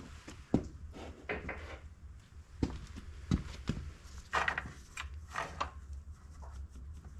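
Metal engine parts of a partly stripped small dirt-bike engine being handled by hand: scattered light clicks and knocks with a few short rubbing scrapes, over a low steady hum.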